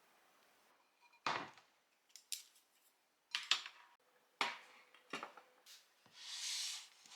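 Kitchen utensils clinking and knocking against dishes, about six separate sharp clinks, with a short scrape or rustle about six seconds in.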